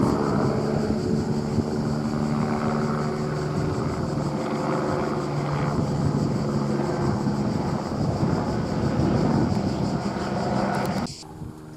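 Airbus AS350 helicopter running, a steady mix of turbine whine and rotor noise. It cuts off abruptly near the end.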